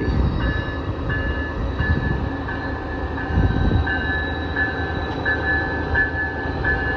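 Amtrak Northeast Regional passenger train pulling out of a station: a steady low rumble, with a short higher tone that repeats about every two-thirds of a second.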